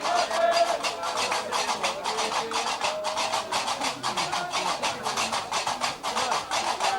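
Gnawa music: qraqeb (iron castanets) clattering a fast, steady rhythm of about five strokes a second, with voices singing long held notes over it.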